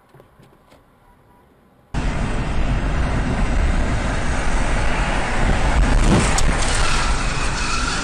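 Faint background for about two seconds, then loud, steady road and engine noise of a car in motion that starts abruptly. A brief sharper sound stands out about six seconds in.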